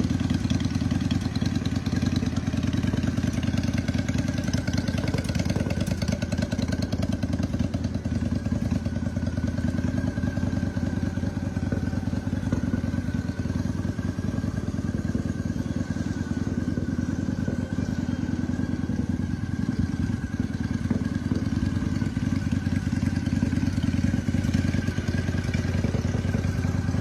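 2003 Honda Shadow's V-twin engine idling steadily with an even, pulsing exhaust beat and no revving.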